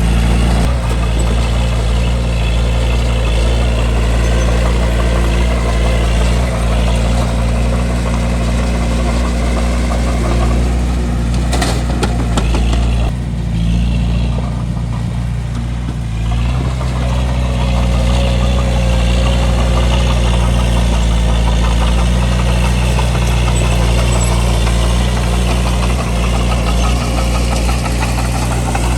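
Bulldozer's diesel engine running steadily under load at a low, even pitch, with a brief dip in level about halfway through.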